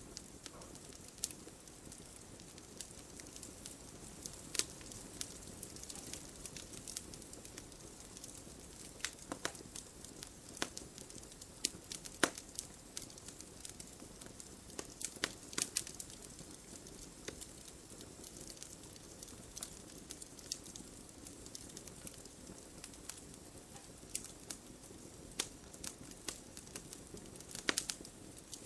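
Campfire burning, with irregular sharp crackles and pops from the wood over a steady low hiss.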